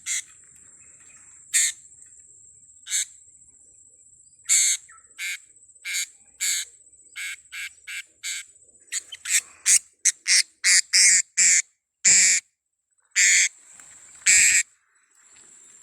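Blue-crowned hanging parrots giving repeated short, sharp, high calls, a few seconds apart at first and then in a quick run about two-thirds of the way in. A steady high insect whine sounds between the calls.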